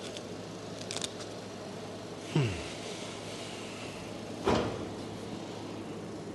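A few faint clicks, then two separate knocks about two seconds apart, each dying away quickly, over a steady low hum.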